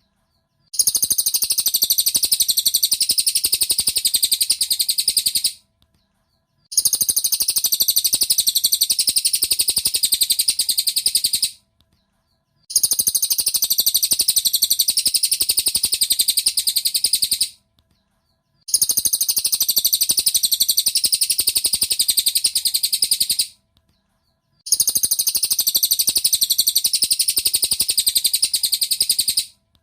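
Cililin bird song played as a masteran tutor track for training caged songbirds. It comes as blocks of rapid, high chirping about five seconds long, each followed by a second of silence, repeating like a loop.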